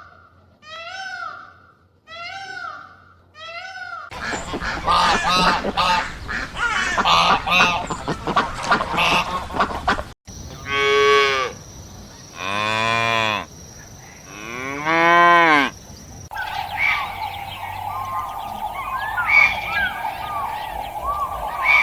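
A run of farm animal calls cut together: short calls repeated about once a second, then a dense flock of honking birds, then three long drawn-out cow moos, then chattering poultry.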